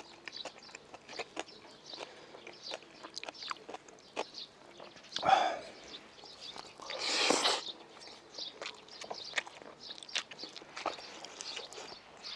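Close-miked chewing of rolled omelette made from ostrich egg: frequent small wet mouth clicks and smacks, with a louder short sound about five seconds in and a longer noisy rush around seven seconds.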